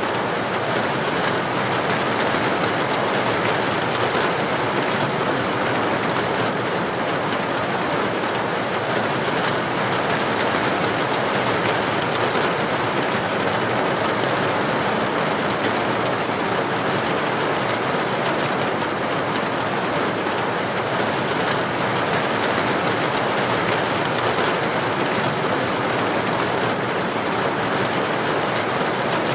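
Heavy rain pouring steadily onto a paved street, an even rushing hiss with no break or swell.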